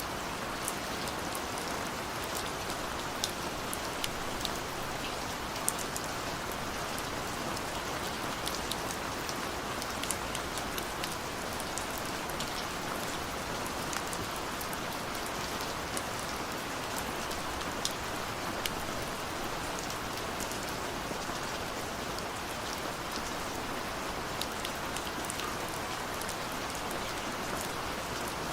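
Steady rain, with many separate drops ticking sharply against a window over a constant hiss of rainfall.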